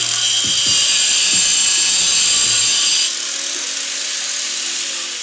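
Angle grinder running at speed against a rusted exhaust bolt, a loud, high-pitched whine. About three seconds in it gets quieter and near the end its pitch starts to fall as it winds down.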